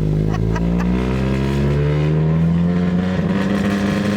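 Turbocharged 1.8 L four-cylinder engine of a Chevy Cruze running loud, its revs climbing slowly on their own and then holding. It is an unwanted behaviour that the owner puts down to the engine still needing tuning.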